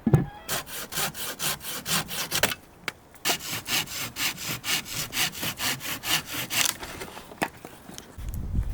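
Rhythmic rasping strokes like a saw or scraper working on wood, about four to five strokes a second, in two runs with a short pause about two and a half seconds in.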